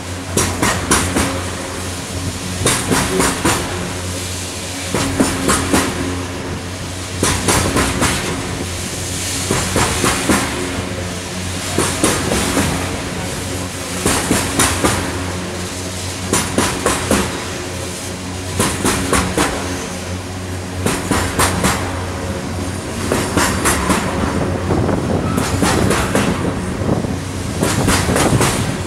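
Freight train of open-top hopper cars rolling past at close range: a steady rumble broken every second or two by clusters of clickety-clack as each car's wheels pass over the rails.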